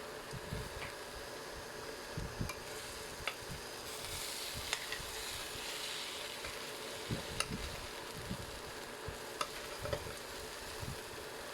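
A spoon stirring sugar syrup in a pan on the stove, with irregular knocks and scrapes against the pan. A light sizzling hiss runs underneath and grows stronger about halfway through.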